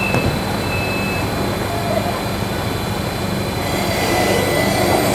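Seehas regional electric train running at the platform: a steady low hum over broad rail noise, growing a little louder near the end.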